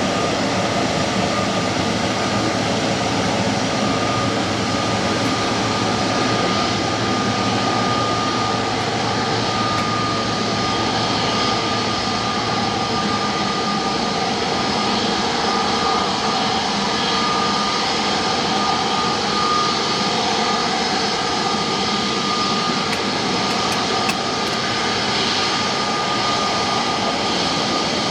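Jet airliner engines running: a steady rushing noise with a thin, constant whine on top that holds level throughout.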